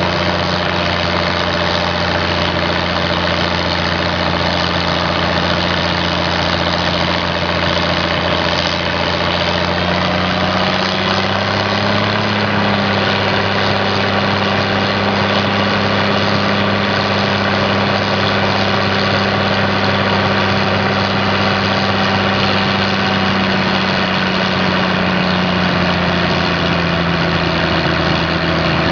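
Fordson tractor engine running steadily while coupled to a Heenan Froude dynamometer for a flywheel power test. Its pitch rises slightly about a third of the way in and eases back near the end.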